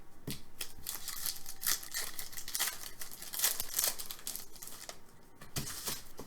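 Trading cards and their pack wrappers being handled: a run of quick papery swishes and crinkles, busiest in the middle and easing off about five seconds in.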